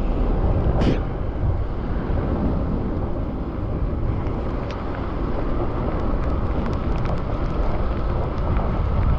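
Wind buffeting the microphone and road noise while riding a bicycle on wet streets: a steady low rush, with scattered sharp ticks and a louder click about a second in.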